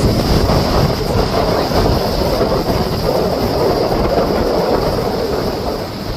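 Strong wind buffeting the microphone with a low, steady rumble over the surging wash of wind-driven lake waves.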